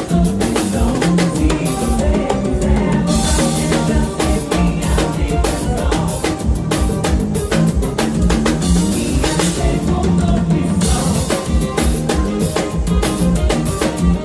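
A band playing with a drum kit keeping a steady, busy beat, with bass and other pitched instruments underneath.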